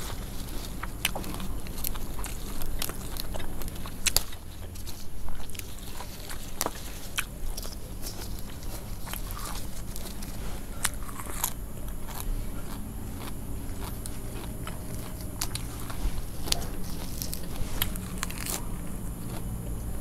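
Close-up eating sounds: crisp fried spring rolls and fresh leafy greens being bitten and chewed, with many sharp crunches scattered irregularly throughout, over a low steady background hum.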